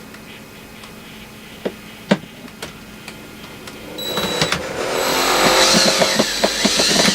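A few light clicks, then about four seconds in a cordless DeWalt drill starts up and runs with a high whine, backing out screws from a wooden frame. It stops abruptly.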